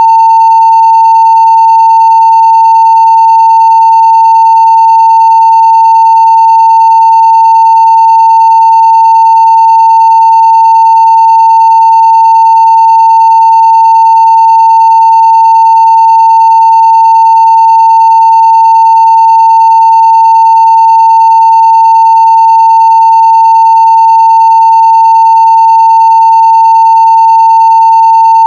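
Steady 900 Hz sine-wave test tone at full scale (0 dB), one unbroken, unchanging pitch.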